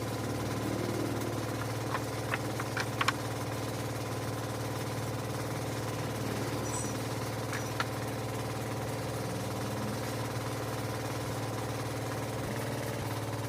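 A steady machine hum, such as a workshop motor running at even speed, with a few light clicks or taps about two to three seconds in and again later.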